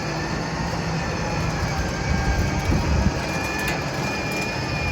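Steady mechanical rumble and rattle as an old Plymouth Barracuda is pulled up onto a car trailer. A faint high squeal comes in after about three seconds.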